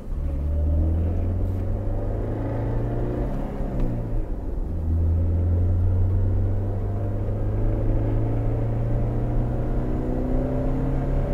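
A 2008 Pontiac Solstice's four-cylinder engine heard from inside the cabin, accelerating through the gears of its manual gearbox. The revs climb, drop with an upshift about 4 seconds in, then climb steadily again.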